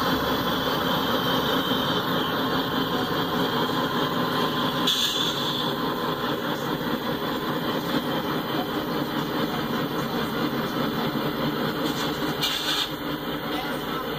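Two Canadian National diesel locomotives running past under power with a steady engine drone, then empty coal hopper cars rolling along the rails.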